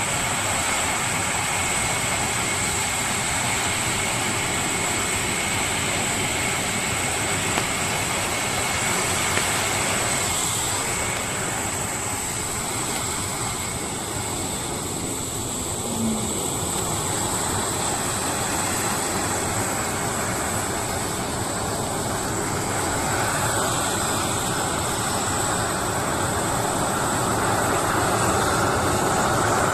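Concorde's Olympus 593 turbojet engines running on the ground: a steady roar with a high-pitched whine over it, growing slightly louder near the end.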